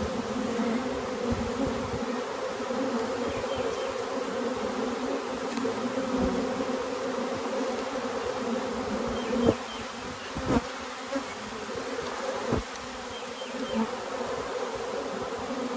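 A swarm of honeybees buzzing in a steady, dense hum, with a few short knocks about two-thirds of the way through.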